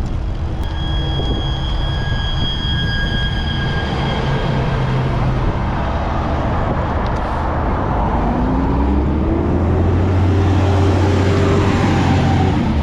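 Road traffic passing close to a cyclist, with wind noise on the camera. A high squealing tone is heard for a few seconds early on. From about eight seconds in, a heavy vehicle's engine rises in pitch and grows louder as it goes by.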